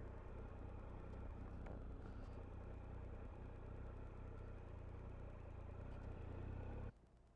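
Motorcycle engine running steadily at low revs, with wind and road noise, then stopping abruptly near the end.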